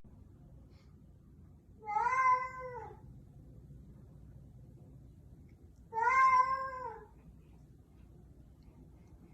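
A cat calling twice: two drawn-out meows about four seconds apart, each about a second long, rising then falling in pitch.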